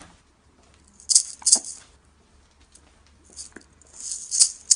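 A baby's toy maraca rattle shaken in short spells: two quick shakes about a second in, then a few more from about three and a half seconds in, each a dry, high-pitched bead rattle.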